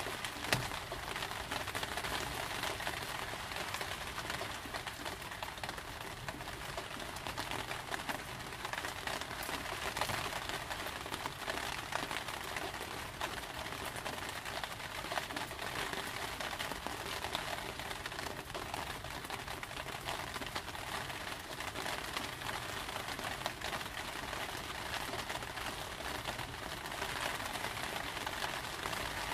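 Steady rain falling on a hard surface, a dense, even hiss of many close drop hits. A single sharper tick stands out about half a second in.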